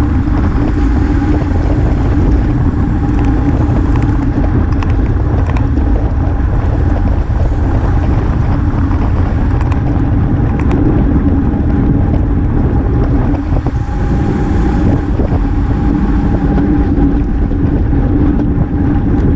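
Steady rush of wind over a bicycle-mounted camera's microphone while riding at speed, with a constant hum of tyres on the road underneath.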